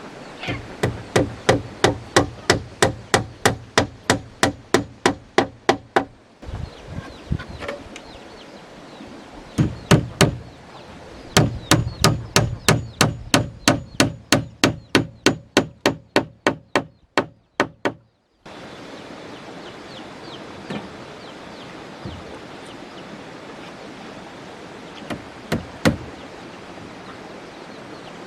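A hand tool striking wood in quick, even blows, about three to four a second, in two long runs with a pause between them. A few single blows follow later.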